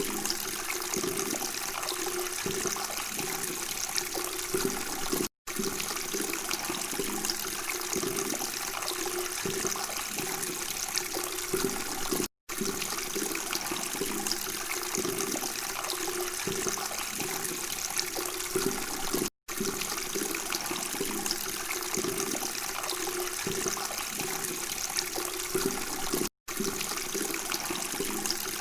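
Water babbling and trickling steadily, cutting out to silence for an instant four times, about every seven seconds.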